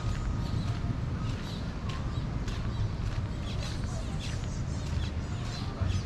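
Birds chirping and calling repeatedly in short high notes, over a steady low rumble.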